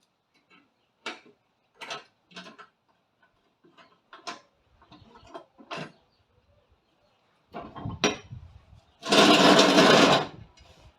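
Tools knocking and clicking against metal mower parts: a string of single sharp knocks, then a loud rushing burst lasting about a second and a half near the end.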